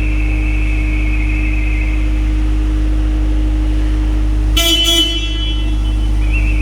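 Long, steady, high whistle made with the mouth, imitating a metro departure whistle, for the first two seconds, starting again near the end. About four and a half seconds in comes a short, harsh horn-like toot. A metro train's steady low rumble and hum runs underneath.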